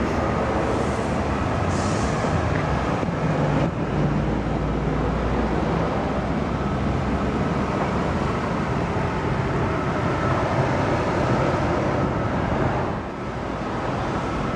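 Steady running noise of an idling car engine, the 1991 Chevrolet Caprice's 305 cubic inch V8, heard from outside the car together with road traffic noise.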